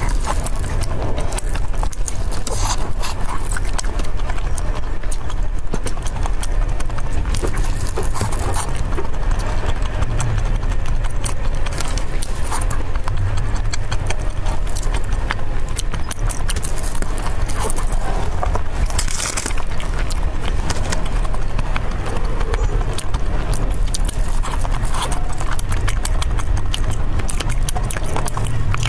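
Close-miked eating: a person chewing food fast, with rapid wet mouth clicks and smacks and a constant low rumble underneath.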